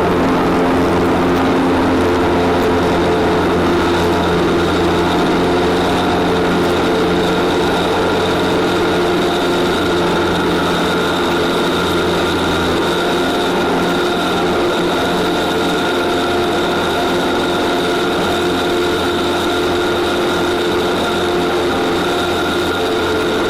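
Light aircraft's piston engine and propeller running steadily in flight: an even, unbroken drone with several steady tones over it.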